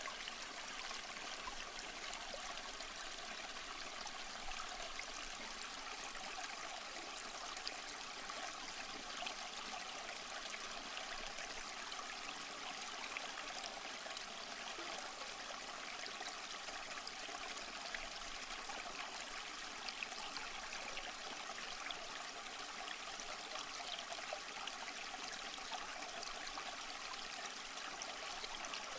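Small stream running steadily over rocks, with a continuous trickling and splashing hiss of water.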